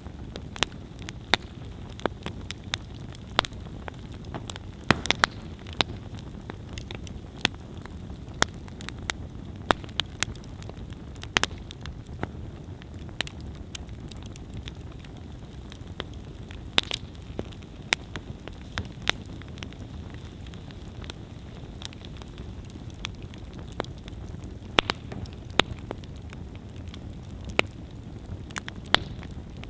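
Wood campfire burning with a steady low rumble and frequent sharp, irregular crackles and pops from the burning wood.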